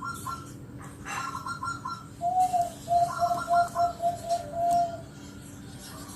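Zebra dove (perkutut) cooing: a loud run of about nine short, clear notes in the middle. Three quicker runs of short, higher notes come around it, at the start and twice more.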